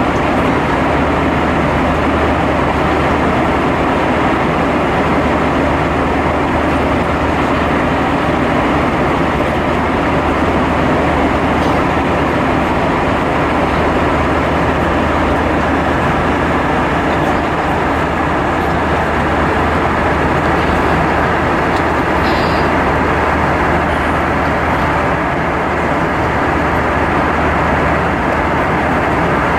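Cabin noise inside an Airbus A320 in flight: a steady rush of airflow and engine noise with a constant low hum underneath.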